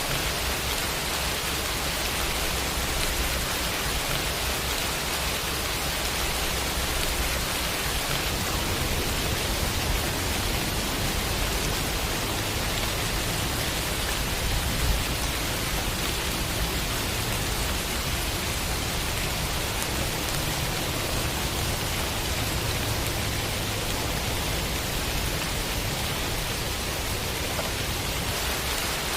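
Rain sound effect: a steady, even hiss of falling rain with a low rumble underneath.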